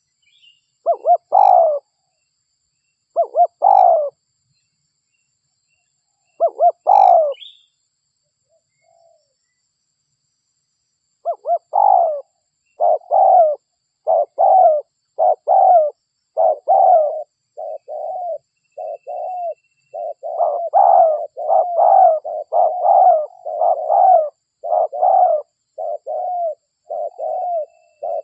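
Spotted dove (derkuku) cooing: a few spaced coo phrases in the first seven seconds, a pause of about four seconds, then from about eleven seconds a fast, unbroken string of coos, roughly one to two a second.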